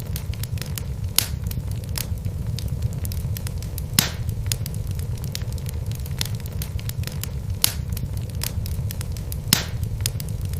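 Wood logs burning in a fireplace, crackling: a steady low rumble of the fire under many small crackles, with four louder pops spread through.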